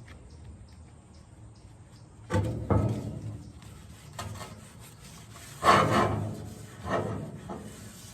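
Wooden shovel handle being worked over with an oily rag and handled: four separate rubbing strokes, the loudest about halfway through.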